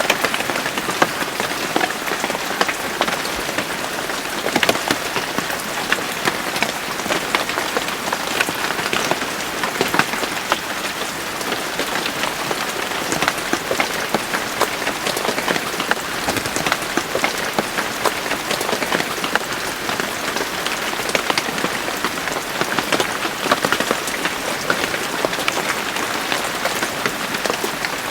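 Steady rain falling, many close raindrops pattering on a surface as a dense, even hiss.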